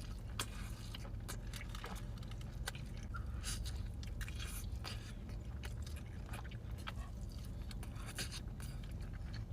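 Close-miked chewing of an adobada taco: many short wet mouth clicks and crunches over a steady low hum.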